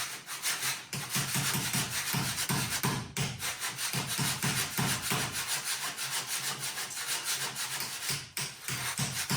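Hand-rasping of a wooden countertop edge in quick, repeated scraping strokes, a few a second, shaving it down.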